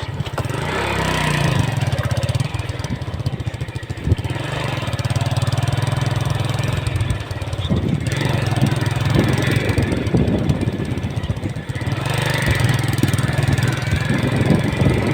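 Motorcycle engine running as the bike is ridden. The engine note eases off and picks up again a few times.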